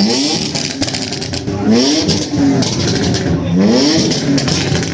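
Vehicle engine being revved hard three times, its pitch climbing steeply and falling back each time, with a rough, crackling exhaust note between the revs.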